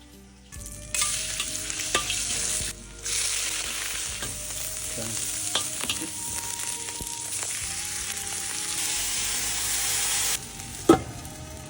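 Food sizzling in a hot wok as it is stir-fried, with a spatula clinking against the pan now and then. The sizzle breaks off briefly about three seconds in and drops away near the end, followed by one sharp knock.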